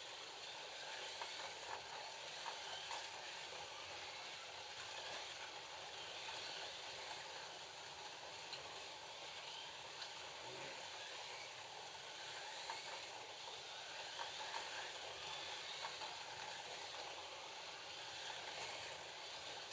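Slot cars racing around the track, their small electric motors giving a steady whirring hiss.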